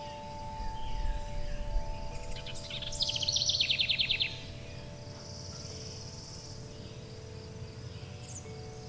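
Forest birds chirping, with one loud, fast trill lasting about a second, about three seconds in. Underneath, wind chimes ring in long, overlapping tones, with a faint steady insect-like buzz.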